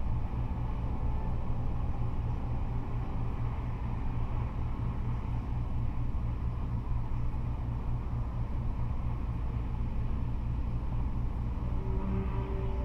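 Steady low rumble of freeway traffic, cars and trucks, with no single vehicle standing out.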